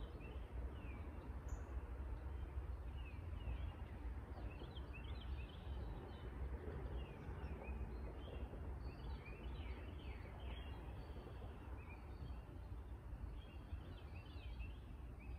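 Songbirds chirping in short, quick falling notes that come in little clusters, over a steady low background rumble.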